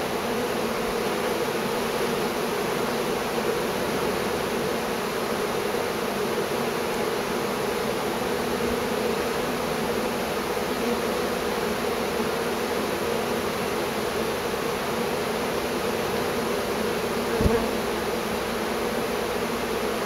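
Steady, dense buzzing of a huge honeybee swarm crowding around a small entrance, many bees at once. A single brief knock near the end.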